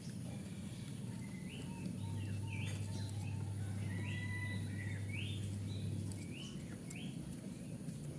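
A local zebra dove (perkutut) coos in a run of faint, short, low notes, while other birds give about eight short rising chirps over it. A low steady hum runs underneath and drops out about six seconds in.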